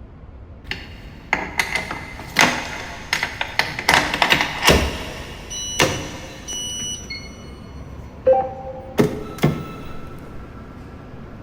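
A rapid run of sharp metallic clanks and knocks, more than a dozen over several seconds, some with a short metallic ring, and brief electronic beeping tones about two thirds of the way through.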